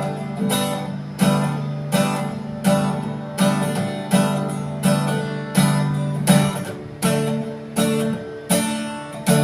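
Acoustic guitar strumming chords in a steady rhythm, about one and a half strums a second, each strum ringing out before the next.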